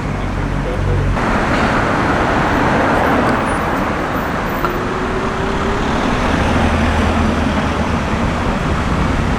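Street traffic: a steady wash of road noise from passing cars, with the low hum of an engine close by at the start and another coming in about six seconds in.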